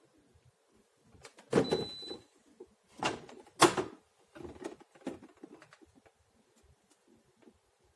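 A few knocks and clunks of things being handled or moved, the loudest about a second and a half in and two more sharp ones around three and three and a half seconds in, then fainter taps.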